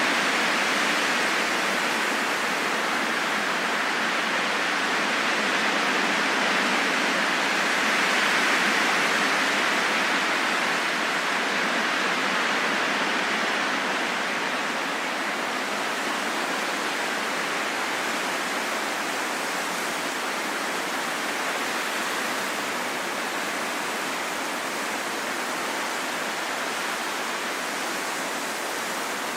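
Wind blowing steadily as an even rush without whistling tones, swelling slightly about nine seconds in and then easing a little.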